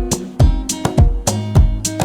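Upbeat pop background music: plucked guitar over a steady drum beat.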